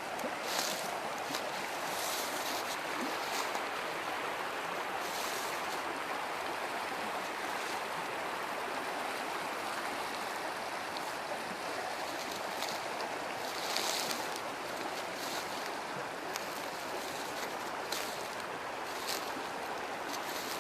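Steady rush of river water, with occasional brief rustles, the loudest about 5 and 14 seconds in.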